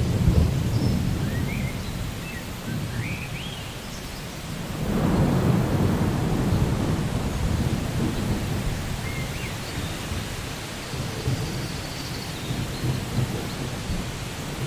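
Steady rain with rolling thunder: a rumble fading away at the start, and another building about five seconds in and slowly dying out.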